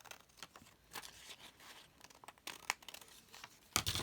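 Paper rustling and sliding as pieces of paper are handled and moved around on a journal page, in short bursts, ending in a sharp knock on the table near the end.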